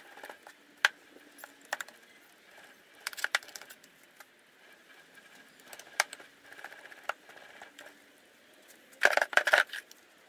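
Scattered small clinks and knocks of objects being handled on a workbench, with a quick run of louder knocks about nine seconds in.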